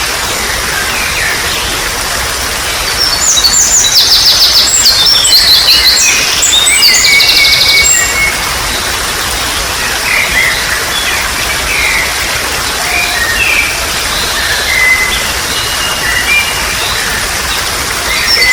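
Steady trickle of running water with wild birds singing over it: a loud run of rapid trilled songs from about three to eight seconds in, then scattered short chirps.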